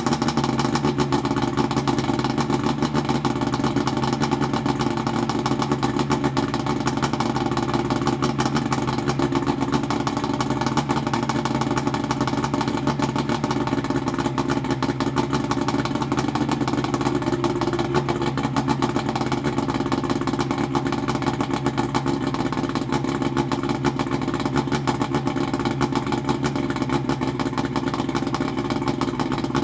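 1972 Johnson 65 hp two-stroke outboard motor running steadily at a constant speed, with a fast even firing pulse.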